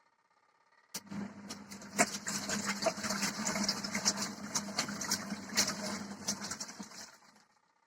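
Portable twin-tub washing machine running: a steady motor hum with water sloshing and clattering in the tub. It starts suddenly about a second in and stops shortly before the end.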